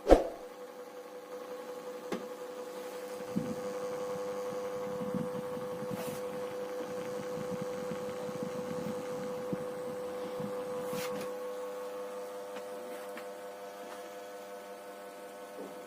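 18-inch NIGA mini ceiling fan's motor running with a steady electrical hum, after a sharp click right at the start, with a few faint ticks along the way.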